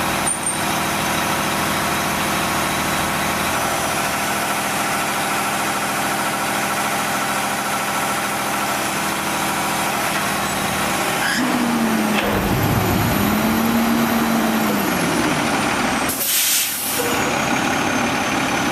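Autocar Xpeditor roll-off garbage truck's diesel engine running steadily, then revving with its pitch rising and falling about two-thirds in. A short air-brake hiss sounds near the end.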